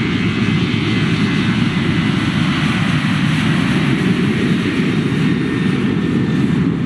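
Jet airliner's engines running with a steady, loud rumble and hiss that holds level without rising or falling.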